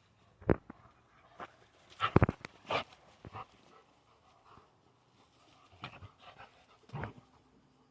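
Dogs play-fighting: panting with scattered short, sharp sounds, the loudest about half a second and two seconds in.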